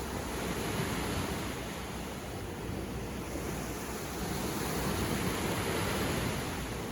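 Sea waves breaking and washing on a beach: a continuous surf hiss that swells a little about two-thirds of the way through.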